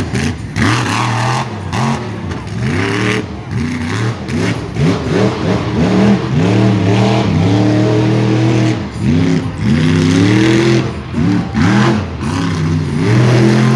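Monster truck engine revving, its pitch climbing and falling back again and again, with a held higher rev around the middle and near the end.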